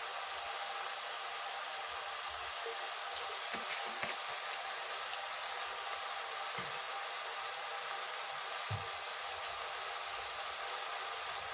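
A steady kitchen hiss while the chicken filling cooks in the pan, with a few soft knocks about four seconds in, around six and a half seconds in, and near nine seconds in.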